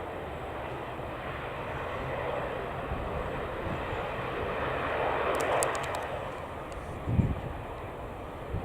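Jet engine noise from an Airbus A330-343's Rolls-Royce Trent 700 turbofans as the airliner taxis: a steady rush that swells about five seconds in and then eases. A brief low thump comes about seven seconds in.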